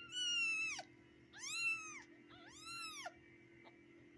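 Newborn kitten, about two days old, mewing: three high, arching cries about a second apart.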